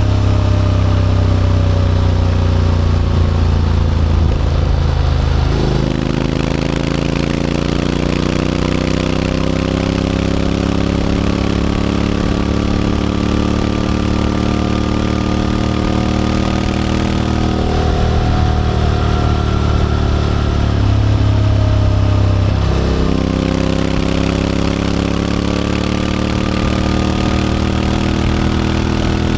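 Honda X-ADV 750 parallel-twin engine running through an SC-Project titanium slip-on exhaust while riding. The engine note falls at first, then changes abruptly twice, about six seconds in and again near the end, and climbs slowly between those points as speed builds.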